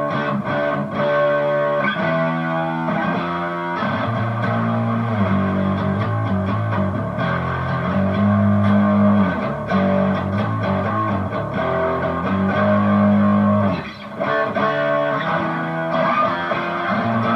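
Strat-copy electric guitar played through a Harley Benton American Sound distortion pedal with the drive all the way up and the EQ flat, into a Hotone mini amp head and Vox BC108 cab: loud distorted notes and chords, each held for a second or so, with a brief break about fourteen seconds in.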